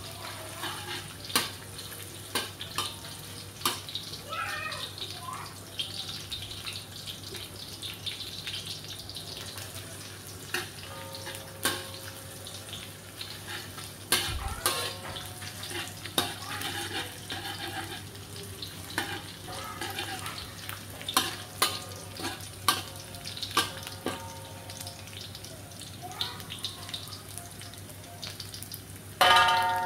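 Sliced shallots and garlic sizzling in oil in a wok, with a metal spatula scraping and tapping against the pan many times. Near the end a louder sound with a steady pitch cuts in.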